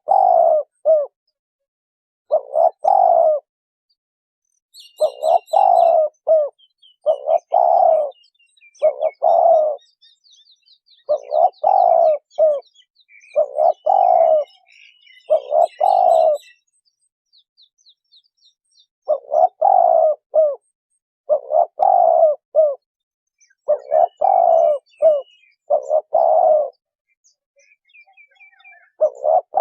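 Spotted dove cooing: a low, repeated coo phrase about every two seconds, with a longer pause a little over halfway through. Small birds chirp faintly and high-pitched behind it in the first half.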